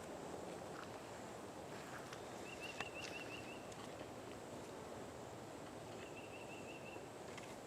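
Faint woodland ambience with a bird giving two short runs of quick, high repeated notes, about two and a half seconds in and again about six seconds in. A single sharp click comes just before the three-second mark.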